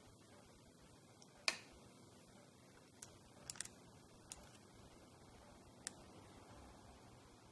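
About six faint, sharp clicks at uneven intervals over quiet room tone, the loudest about one and a half seconds in, from an iPhone 8 Plus whose vibration module has come loose inside.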